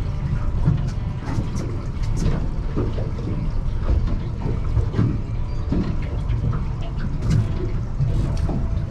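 Water slapping and splashing against a small fishing boat's hull in irregular bursts, over a steady low rumble of wind and sea.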